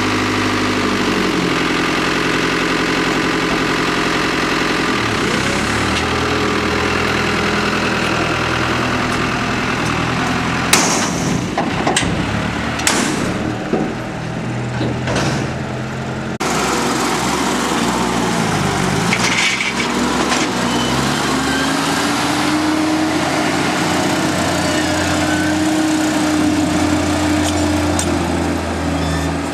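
Diesel tractor engines working, their pitch falling and rising several times as they rev down and up. A few sharp knocks come near the middle.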